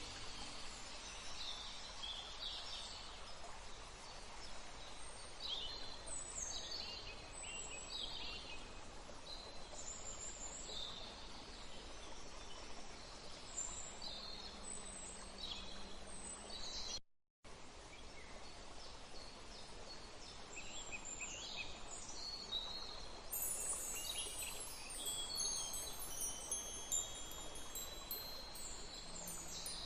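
Small birds chirping, short high falling calls repeated over a soft steady hiss. The sound drops out for a moment about 17 seconds in. From about 23 seconds in, wind chimes ring with many clear high notes alongside the birds.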